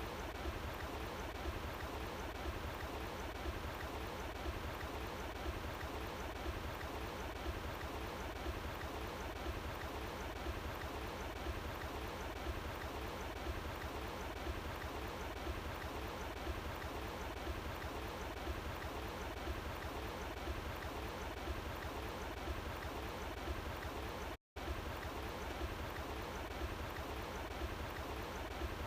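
Running water of an outdoor stream flowing steadily, with a split-second dropout to silence near the end.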